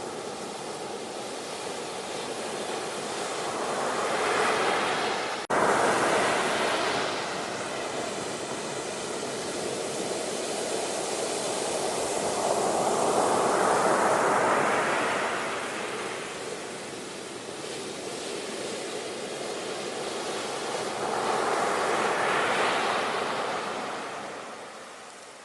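Ocean surf: waves breaking and washing in slow swells, each rising and falling over several seconds, with a brief dropout about five seconds in.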